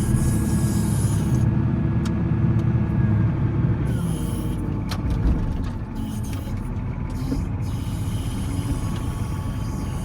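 Volvo L70C wheel loader's diesel engine running hard while plowing snow, easing off in revs about four to six seconds in, with a sharp click partway through.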